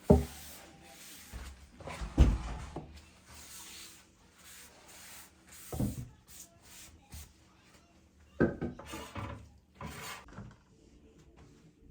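Household handling sounds: about five knocks and thuds, a couple of seconds apart, with rubbing and scraping between them.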